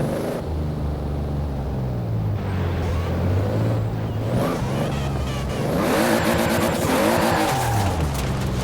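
Toyota Supra RZ's 2JZ-GTE straight-six, converted to a big single turbo, revving up and down repeatedly. About six seconds in, a harder rise in revs comes with a loud rushing hiss from the turbo system.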